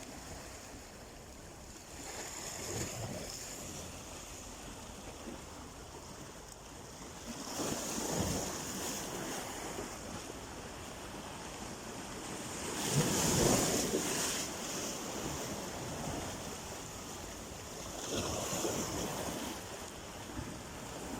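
Sea waves washing onto the shore. Each wave is a swell of rushing noise, arriving about every five seconds, and the loudest comes about halfway through.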